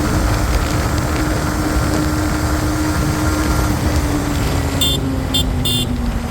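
Motorcycle engine running steadily under heavy low wind and road rumble while riding; its pitch eases down slightly over the last couple of seconds. A vehicle horn gives three short honks near the end.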